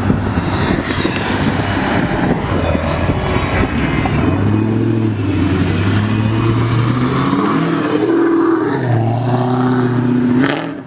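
A performance car's engine and exhaust revving and accelerating, loud, with the engine note holding steady, then dropping and climbing again about eight seconds in.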